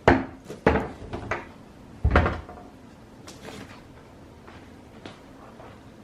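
A series of knocks and clatters of hard objects being handled and set down, loudest in the first two and a half seconds and fainter after.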